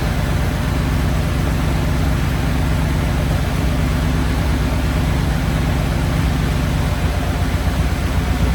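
Ford flathead engine with twin Holley 94 carburetors running steadily at idle, turning a little rougher and more uneven about seven seconds in.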